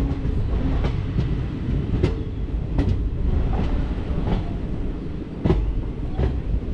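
Passenger train coach running at speed, heard from its open doorway: a steady rumble of wheels on the track, with sharp clacks as the wheels cross joints in the rails about once a second.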